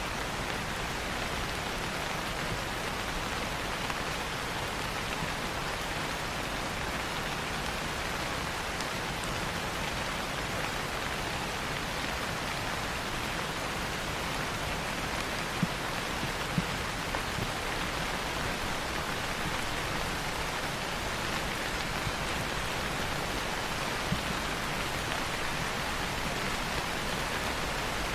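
Steady rain falling, with a few sharp crackles from a wood fire, a cluster about halfway through and one more later.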